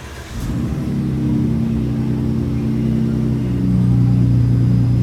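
2016 Ford F-150's 3.5 EcoBoost twin-turbo V6 on a cold start. It catches about a third of a second in and settles into a steady fast idle, heard through a new 3-inch stainless mandrel-bent catback exhaust with Thermal Dynamics mufflers and side-exit dual tips.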